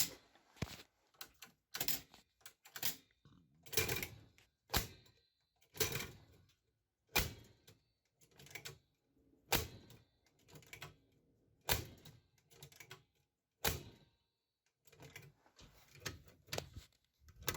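Repeated mechanical clunks and clicks from a 1979 Panasonic PV-1200 VCR's controls and mechanism, roughly one every second or so, as the machine is worked and fails to run.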